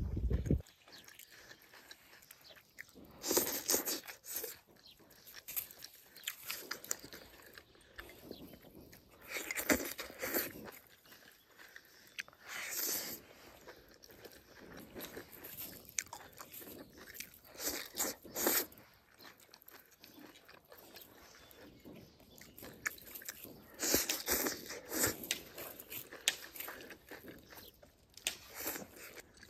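A person chewing and crunching mouthfuls of stir-fried chili peppers and rice close to the microphone, in separate bouts every few seconds.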